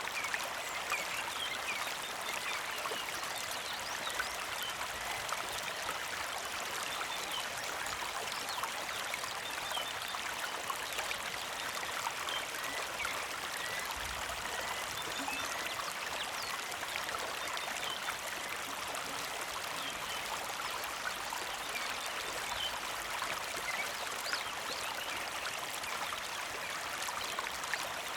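A small mountain creek flowing steadily, an even rushing trickle of water over stones with small bubbling plinks.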